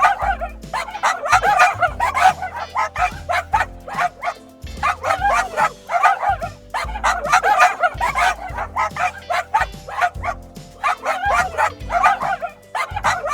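Dog barking over and over in quick runs of short barks, with brief pauses between the runs, over background music with a low bass pulse.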